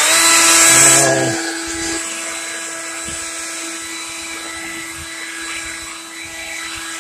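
Leaf blower running with a steady whine. It is at its loudest with a strong rush of air for about the first second, then eases back to a lower, steady speed.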